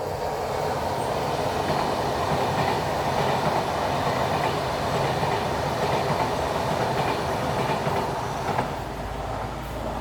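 A train running past on the rails: a steady rolling noise of wheels on track that eases a little near the end.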